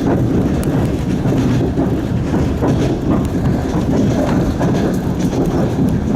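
Passenger train running on the rails, heard from a carriage window: a steady rumble of wheels and carriage, with scattered sharp clicks and knocks.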